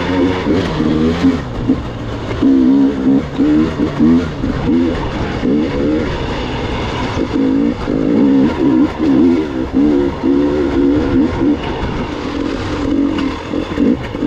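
Gas Gas EX 300 two-stroke dirt bike engine being ridden over rough terrain, its pitch rising and falling constantly as the throttle is blipped and rolled on and off.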